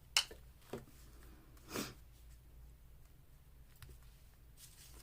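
Paper ephemera being handled on a craft table: a sharp tap just after the start, a lighter tap, and a brief paper rustle about two seconds in.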